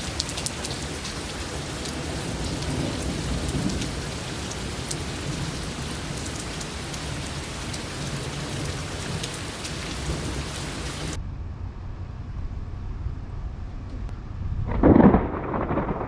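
Heavy rain falling steadily. After about eleven seconds the hiss of the rain drops away abruptly. Near the end a loud, sudden thunderclap breaks, rumbling on afterwards.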